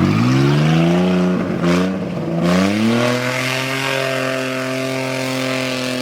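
4x4 off-road vehicle's engine revving up. The pitch climbs over the first three seconds or so, with a brief stumble partway, then holds steady at high revs.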